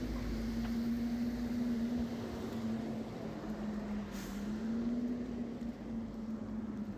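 A steady engine hum from a nearby motor vehicle, wavering slightly in pitch, over a constant hiss of rain; the hum stops near the end.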